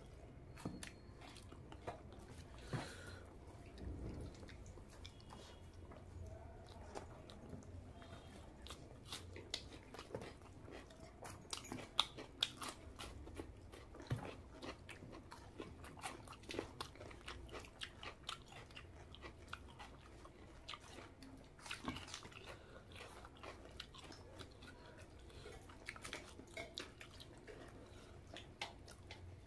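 A person chewing and biting close to the microphone, eating rice mixed with fish curry and egg curry by hand: many short, sharp mouth clicks at a low level, with the odd louder one.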